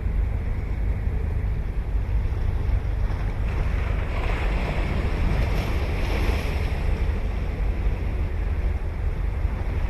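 Ocean surf breaking and washing on the shore, with one wave swelling to a louder hiss around the middle. Wind buffets the microphone, adding a steady low rumble.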